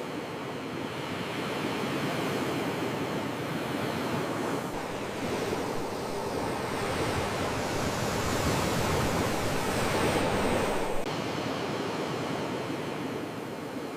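Sea waves washing in a steady rush. The surge grows louder from about a third of the way in and drops back abruptly near the end.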